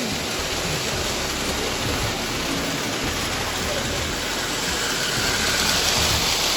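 Steady, even background noise of a busy hall, with faint distant voices, swelling slightly near the end.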